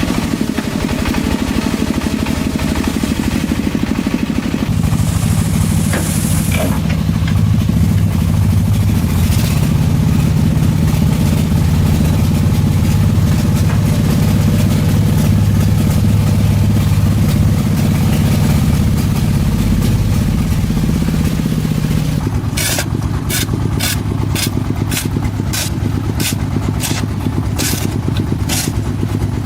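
A machine's engine running steadily, working harder from about five seconds in and easing back about twenty-two seconds in. Near the end comes a series of sharp, evenly spaced strokes, about two a second.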